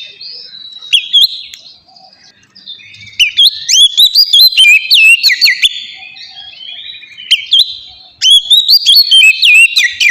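An Oriental magpie-robin singing loudly and continuously, a fast, varied run of sweeping whistles and chattering notes in bursts, with a couple of short quieter pauses.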